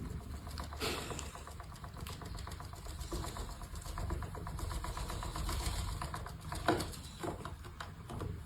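Faint, steady rapid buzz-rattle of a small vibrating device's motor running, with a couple of light knocks.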